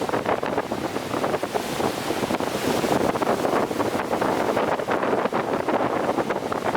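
Strong wind buffeting the microphone in a continuous rumble, with the wash of high, rough sea waves beneath it.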